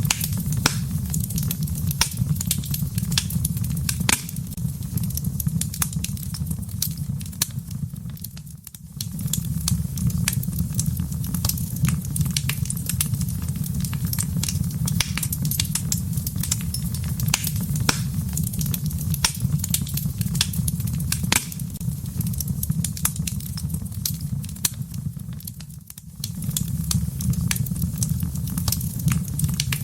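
Wood fire burning in a fireplace: dense crackling and sharp snaps over a steady low rumble of the flames. The sound dips briefly twice, about 9 and 26 seconds in.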